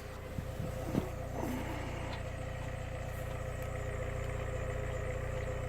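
VW Passat 2.0T turbocharged four-cylinder engine idling steadily, heard through its exhaust. A few sharp knocks come in the first second, the loudest about a second in.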